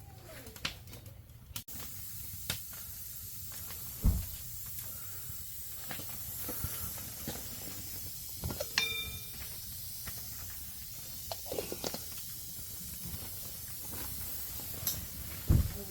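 Steady steamy hiss of a pot of herbal tea boiling over a wood fire, with scattered small crackles and a few sharp knocks.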